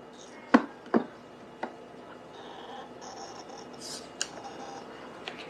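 Hard clicks and knocks of the filter basket and its holder being fitted onto a De'Longhi La Specialista espresso machine. Two sharp clicks come about half a second and a second in, followed by a few lighter taps.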